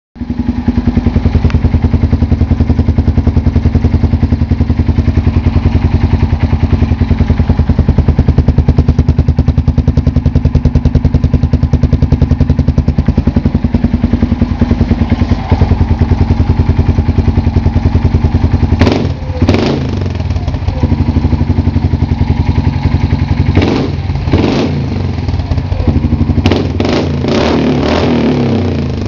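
Yamaha Kodiak 400 ATV's single-cylinder four-stroke engine idling through an HMF aftermarket utility exhaust, with a steady even pulse. In the last ten seconds it is blipped several times: two quick revs, then two more, then a quick cluster near the end.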